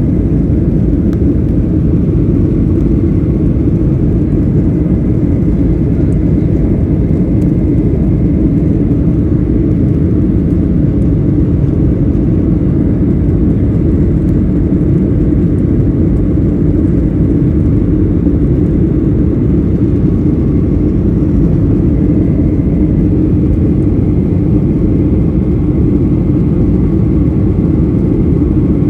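Steady airliner cabin noise: the constant drone of the engines and rushing airflow heard from a passenger seat, heaviest in the low range with a faint steady whine above it.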